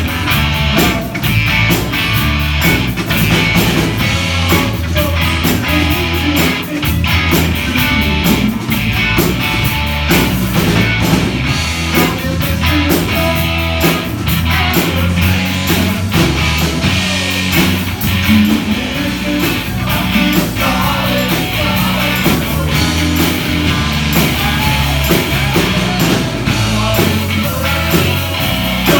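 Live band playing a song, with electric guitar and bass over a steady drum beat.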